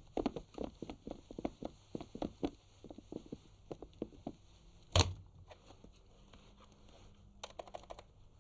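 Hurried footsteps on a wooden floor, about four steps a second, then a single loud thud about five seconds in, and a brief rattle near the end.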